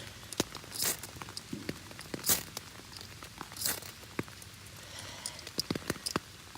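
Ferrocerium rod being struck, three short hissing scrapes about a second and a half apart, throwing sparks onto a tinder bundle. Many small ticks of raindrops hitting an umbrella run underneath.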